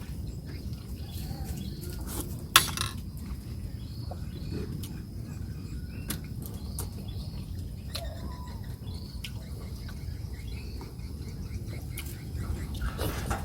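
Eating sounds: scattered sharp clicks, one louder knock about two and a half seconds in, over a steady low rumble, with faint chirping in the background.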